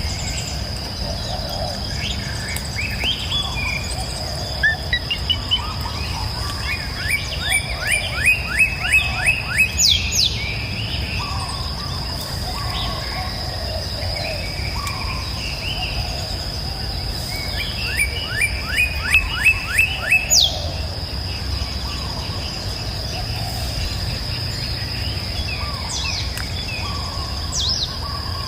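Wild birds singing over a steady rushing river, with a steady high insect drone. Twice, about seven seconds in and again near the middle, one bird gives its loudest phrase: a quick run of about seven notes ending in a sharp falling whistle; softer chirps and calls come in between.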